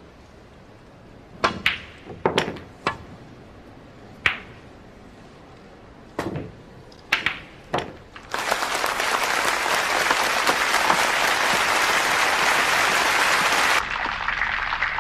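Several sharp, separate clacks of billiard balls striking one another, then an audience breaking into applause a little past halfway, loud at first and quieter near the end.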